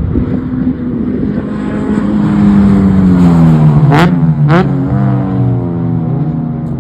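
Race car engine running hard on track, its pitch sliding slowly down, then two quick drops and recoveries in revs about four seconds in.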